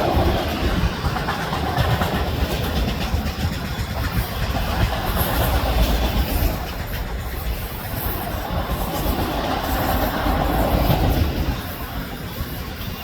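Freight train of autorack cars rolling past: a steady rumble of steel wheels on rail with a clickety-clack.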